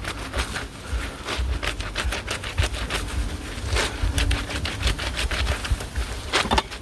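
A wet, soapy shirt being hand-scrubbed, the fabric rubbed against itself back and forth in a quick, uneven run of rubbing strokes.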